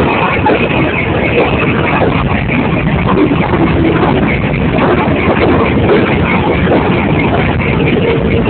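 R160A subway train pulling out of the station, its wheels and motors running loud and steady on the track. A steady tone comes in near the end.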